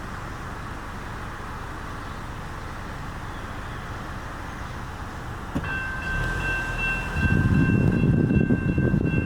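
CSX train arriving close by. A steady high whine of two pitches starts about five and a half seconds in, and from about seven seconds the loud low rumble of the train passing takes over.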